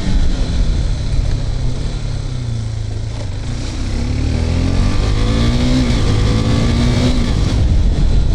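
KTM RC 390's single-cylinder engine, on its stock exhaust, running at road speed with heavy wind rush on the helmet microphone; it eases off around two seconds in, then pulls up through the revs, its pitch rising from about four seconds in.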